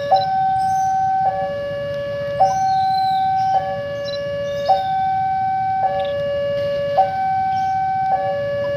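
Two-tone hi-lo warning siren, alternating steadily between a higher and a lower note, each held about a second, with a brief blip at every change.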